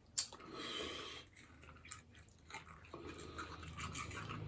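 Close-miked eating sounds of buffalo bone marrow and noodles: a sharp click near the start, a short noisy wet sound just after it, then soft chewing.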